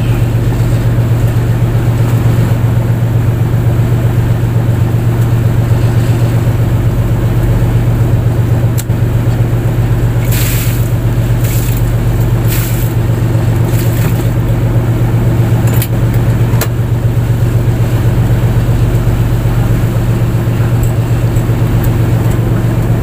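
A fishing boat's engine running steadily at constant speed, with a deep, even hum. A few brief hiss-like noises come about ten to thirteen seconds in.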